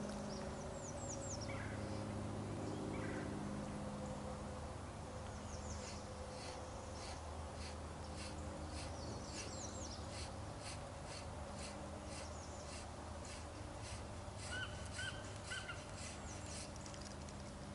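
Birds chirping with quick falling calls over a steady low hum. From about five seconds in there is a regular high ticking, and about fifteen seconds in a short run of clear pitched calls.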